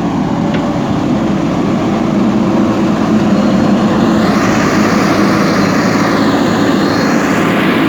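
Diesel engine of a JCB backhoe loader running steadily under working load, growing a little louder after about three seconds, with a hiss in the upper range joining from about four seconds in.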